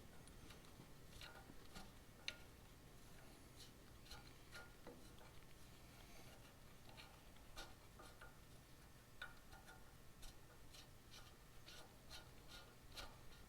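Faint, irregular small metallic clicks and taps of a box-end wrench being worked on the fan nut, with one sharper click about two seconds in.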